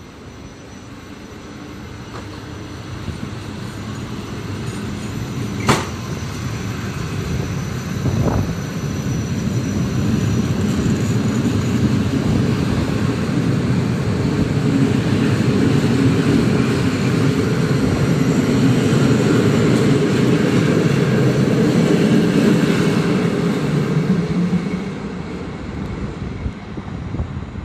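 PKP Intercity passenger coaches rolling along the track, their wheels running on the rails in a steady rumble. The rumble builds over the first ten seconds, holds, and eases off near the end. A single sharp click comes about six seconds in.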